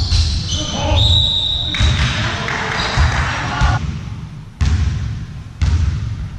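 Indoor ball game in a large echoing hall: a ball thuds on the floor, with sharp knocks about four and a half and five and a half seconds in. Shoes squeak on the court near the start, and players' voices are heard.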